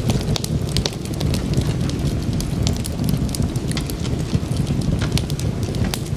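Wood fire crackling, with frequent irregular sharp pops and snaps over a steady low rush of the flames.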